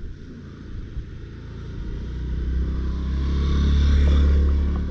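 A motor vehicle's engine passing by: it grows louder from about two seconds in, peaks around four seconds, then starts to fade.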